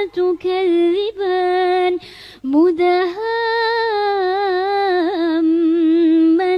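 Melodic Quran recitation by a single voice: the refrain word 'tukadhdhiban' is chanted, with a quick breath about two seconds in, then drawn out into a long held note with a wavering, ornamented pitch.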